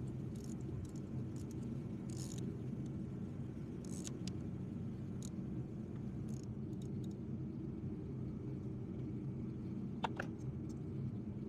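Scattered short metallic clicks from a ratchet working on a spark plug, most of them in the first few seconds, with a sharper knock about ten seconds in, over a steady low rumble.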